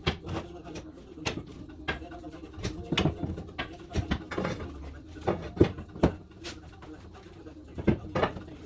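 Irregular sharp knocks and clatters of hand-tool work on a car during a teardown, with a bird cooing in the background.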